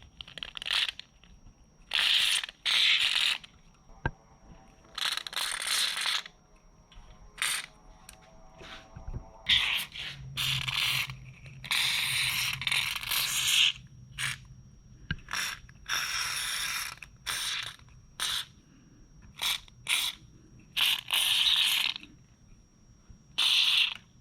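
Aerosol can of white lithium grease spray being sprayed in a long series of hissing bursts, from brief puffs to bursts of over a second, as lubricant is applied to a garage door's hinges and rollers.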